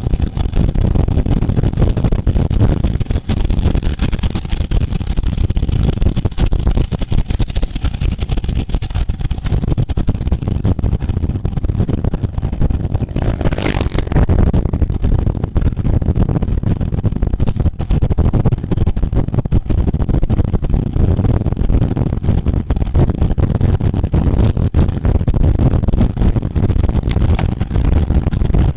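Loud, steady wind buffeting on a riding cyclist's camera microphone, a deep noise without pitch. A short hiss comes about halfway through.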